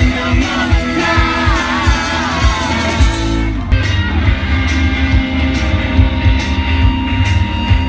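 Rock band playing live: a steady drum beat and electric guitars, with a singer's voice over them for about the first three seconds, after which the instruments carry on alone.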